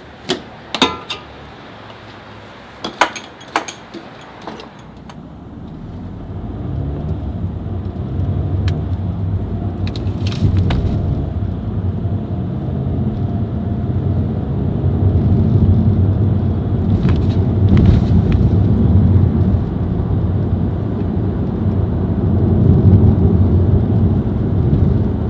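A few sharp clicks and knocks, then a car gets moving: low engine and road rumble builds over a few seconds and then holds steady. The car is a 2019 Kia Soul driving forward on its newly replaced dry dual-clutch transmission.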